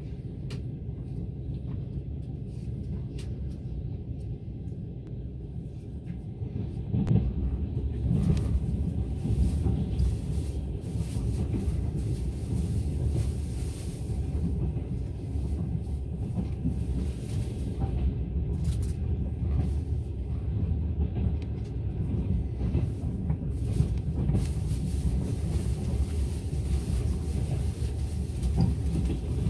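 Passenger train running along the track: a steady low rumble of the carriage on the rails, growing louder about seven seconds in, with a few sharp knocks.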